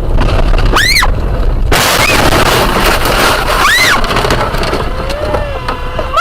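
Dashcam audio of a road crash: a sudden loud crashing noise lasting about two seconds, with a short high cry just before it and another near its end.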